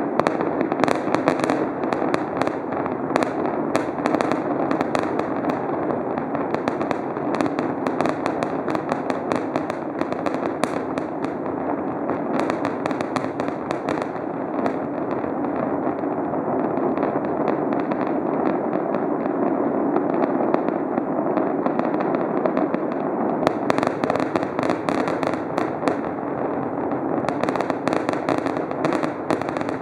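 Fireworks display going off in a continuous barrage: shell bursts and rapid crackling pops overlapping with no pause. The sharp crackle thins out midway and picks up again about two-thirds through.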